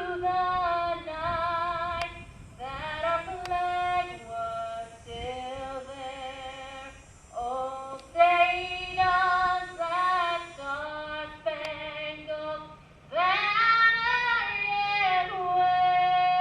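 A woman singing solo, holding long notes in phrases.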